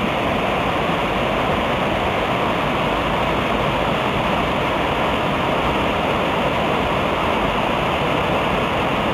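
Water rushing steadily over a creek waterfall and rapids.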